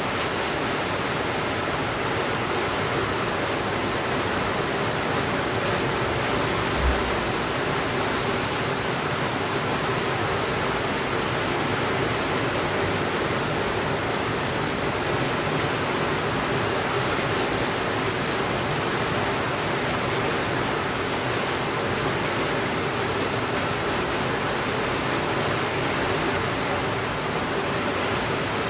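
Steady rainfall, an even hiss with no thunder. One brief low thump about seven seconds in.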